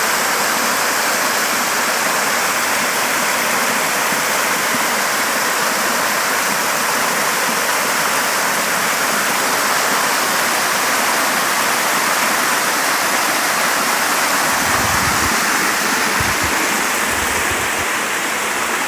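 A waterfall running full after heavy rain: a steady, loud rush of falling water. Some low buffets of wind on the microphone near the end.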